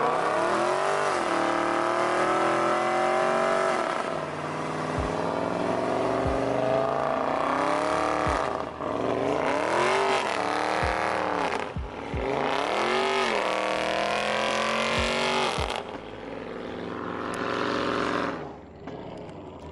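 A performance car's engine revving hard, its pitch climbing and falling several times over, with a few low thumps. It fades away near the end.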